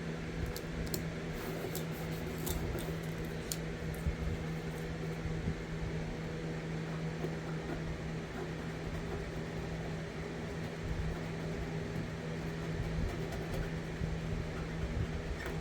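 Steady electric motor hum with a low drone, joined by a few faint clicks in the first four seconds.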